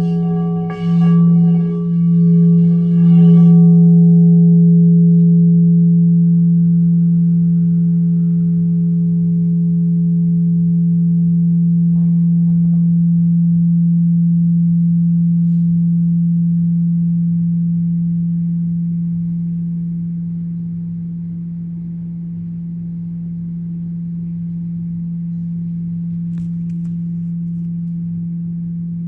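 A deep, sustained ringing tone with overtones, struck or swelled a few times in the first few seconds and then left to ring, slowly fading with a gentle waver.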